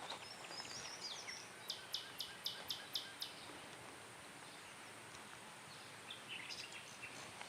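Birds chirping over a steady outdoor hiss, with a quick run of about seven sharp, evenly spaced high calls about two seconds in.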